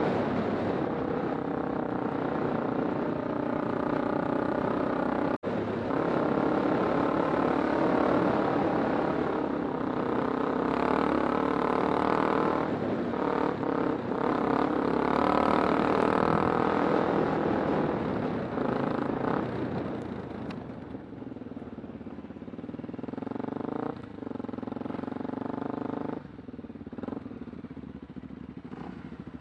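Kawasaki Super Sherpa's 250 cc single-cylinder four-stroke engine running under way, its pitch rising and falling with throttle and gear changes. About two-thirds of the way through it eases off and runs quieter.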